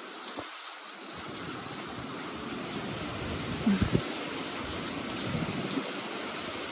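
Hurricane rain and wind making a steady hiss that thickens about a second in, with a few short low thumps near the middle.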